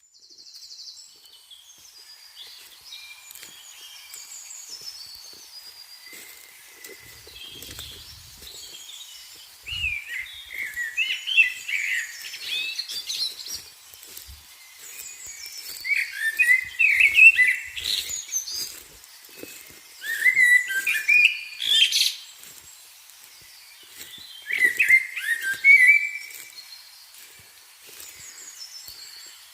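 Songbirds singing: fainter chirping throughout, and from about ten seconds in one bird's loud warbling phrases, each about two seconds long, recurring every few seconds.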